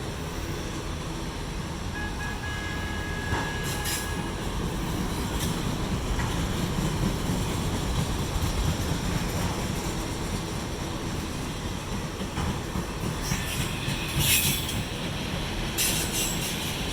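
Autorack freight cars rolling by on the rails with a steady low rumble, and brief high wheel squeals a few times, the longest a couple of seconds in and the loudest near the end.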